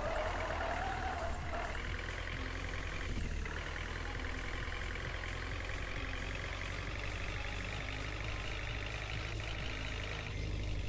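Tractor engine running steadily, with a brief rising higher tone in the first second or so.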